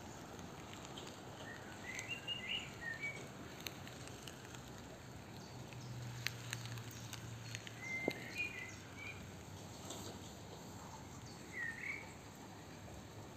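Quiet outdoor garden ambience with a small bird chirping in short bursts, about two seconds in, again around seven to nine seconds, and near the end. A faint low drone comes and goes in the middle.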